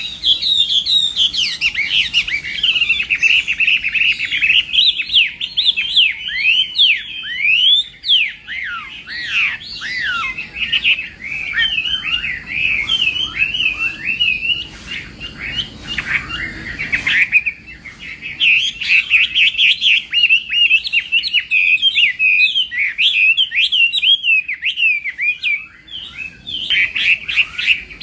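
Chinese hwamei singing a long, rapid, varied song of slurred, rising and falling whistles, the loud fighting song kept hwamei are trained for, with short breaks about 8 and 17 seconds in.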